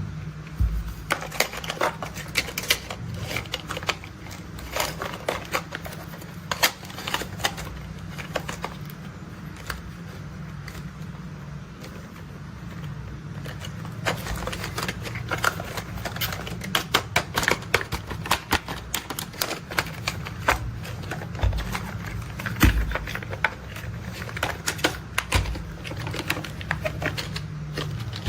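Rapid, irregular clicking and tapping of plastic toy construction vehicles being handled, tapped and rolled. The clicks come thicker and louder in the second half.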